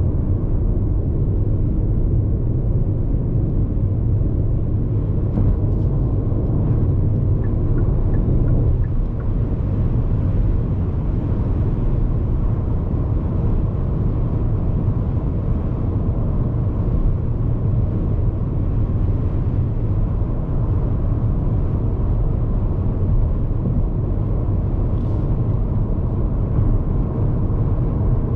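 Road noise inside the cabin of a Hyundai IONIQ 5 AWD electric car cruising on an expressway: a steady low tyre rumble with some wind noise over it.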